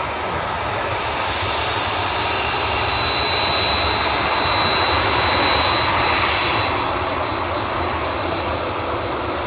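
Jet airliner engines running, a broad roar with a steady high whine that swells from about a second and a half in and fades after about six seconds.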